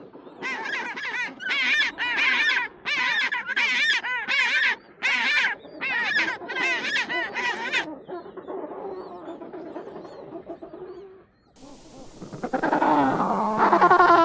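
Penguins calling: a run of about ten loud, quick calls with a wavering pitch, then softer calling. After a brief break, a fresh burst of loud wavering calls starts near the end.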